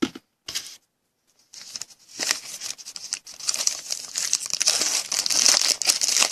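A trading card pack's foil wrapper being torn open and crinkled. It starts about a second and a half in, after a short near-silent gap.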